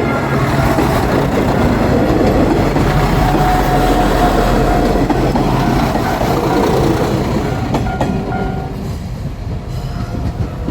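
Diesel railcar tourist train passing close by at a level crossing: engine rumble with wheels clattering over the rail joints, easing off near the end.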